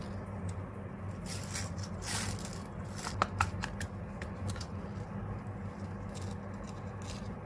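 Rustling and clicking of a transparent plastic sheet being handled and worked by hand, with a couple of sharp clicks about three seconds in, over a steady low hum.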